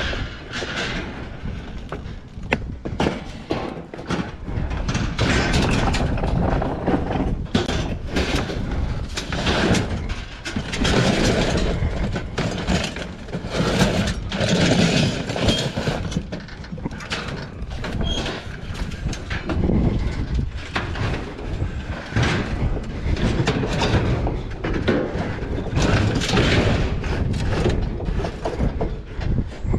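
Irregular clattering, knocking and rustling of trash and scrap being handled and shifted while rummaging in a dumpster.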